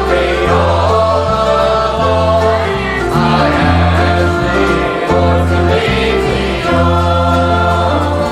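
Church music: a group of voices singing together with instrumental accompaniment, over a bass line that changes note about once a second.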